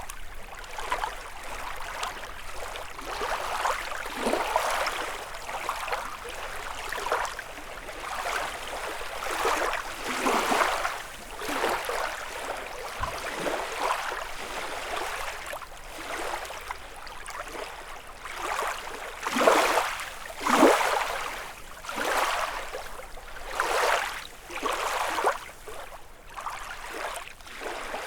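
Small lake waves lapping and splashing against the shore, one soft wash after another every second or two, a little stronger about two-thirds of the way through.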